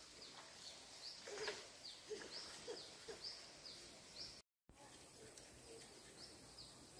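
A bird calling over and over in short, high chirps, about two a second, against a faint outdoor hiss. The sound drops out for a moment about two-thirds of the way through.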